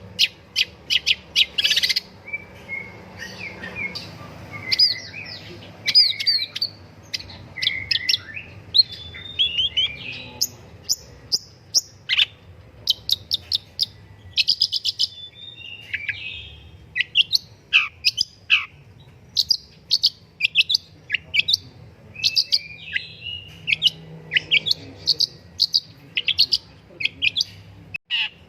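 Long-tailed shrike (pentet, cendet) singing actively: a fast, varied string of sharp chirps and short sliding whistle notes with hardly a pause.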